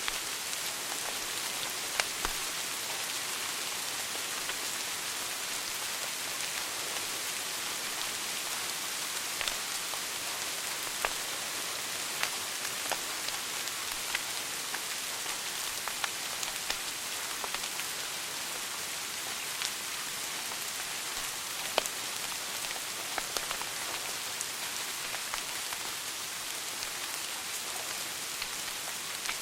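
Wood fire burning in a fireplace: a steady hiss with sharp crackles and pops scattered at irregular intervals, a few of them louder.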